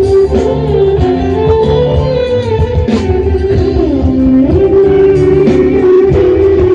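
Instrumental music: a plucked string instrument plays a melody that slides between notes, over a low accompaniment.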